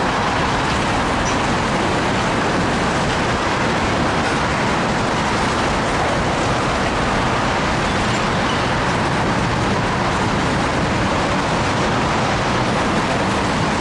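Oil tank cars of a freight train rolling steadily past: a continuous rumble of steel wheels on rail with no horn or sudden sounds.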